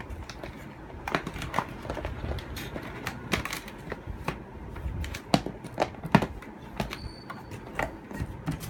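Irregular clicks, taps and knocks of hard plastic machines being handled and set down, several a second and uneven. The loudest knock comes about six seconds in, and a brief faint high tone sounds around seven seconds in.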